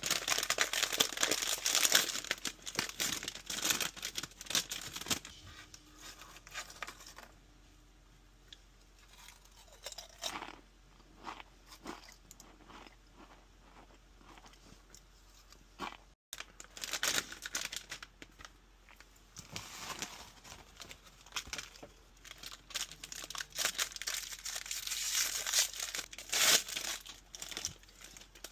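Close-up eating sounds: crunchy food being bitten and chewed, in two busy spells, at the start and again past the middle, with sparser crunches between.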